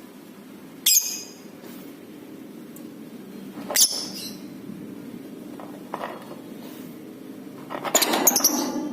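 Lovebird giving sharp, high-pitched chirps: one about a second in, another near four seconds, and a quick run of several near the end.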